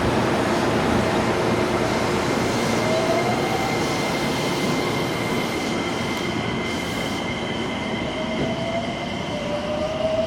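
Electric commuter train moving through the station, its wheels running on the rails with a steady rumble and high ringing tones, and a motor whine that rises in pitch twice.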